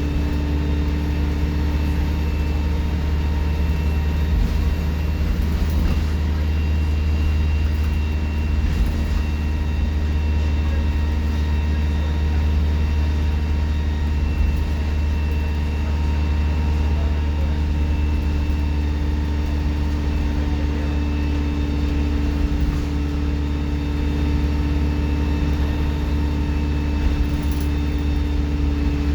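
Alexander Dennis Enviro 200 bus running at a steady engine speed: a low engine drone with a steady high turbocharger whistle over it, loud throughout.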